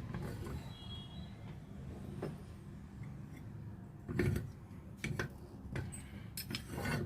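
Scattered sharp metal knocks and clinks of hand tools and parts as a car alternator is being dismantled. The loudest comes about four seconds in, and several more come near the end, over a steady low hum.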